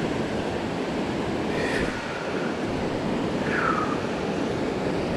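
Steady rush of the Potomac's falls and rapids, an even wash of water noise. Two short high chirps sound over it, the second falling in pitch.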